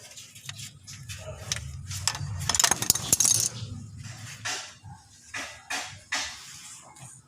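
Metal hand tools and parts clinking and knocking against metal, with a busier stretch of jangling and rattling about halfway through.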